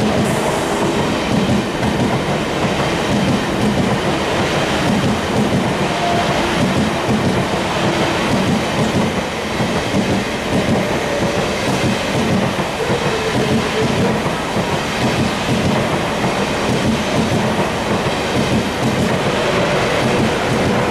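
A Deutsche Bahn ICE high-speed train passing close by on the nearest track: a steady loud rumble and rush of steel wheels on the rails, with some clickety-clack over the rail joints.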